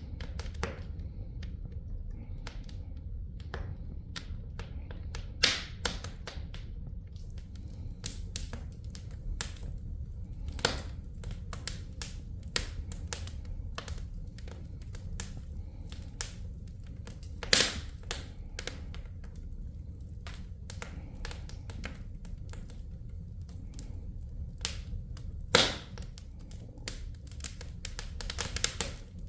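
Wood fire burning in a fireplace, crackling with frequent sharp snaps and about four louder pops, over a steady low rumble.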